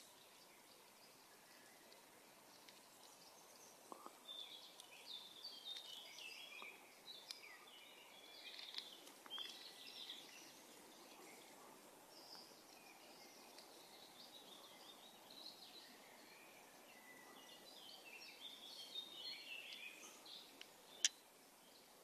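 Faint songbirds singing over a quiet steady hiss, in bursts of quick high chirps, with one sharp click near the end.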